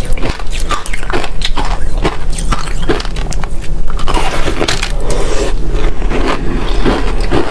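Freezer frost being bitten and chewed close to the microphone: loud, irregular crunches, several a second, with scraping between bites.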